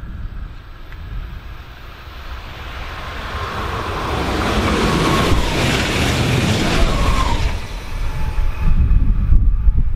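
A train passing on the line: the rushing rail noise swells over the first few seconds, is loudest around the middle with a faint whine on top, then gives way to heavy low rumbling near the end.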